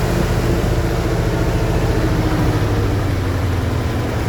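Truck engine running steadily and loud, its pitch easing slightly lower about two and a half seconds in.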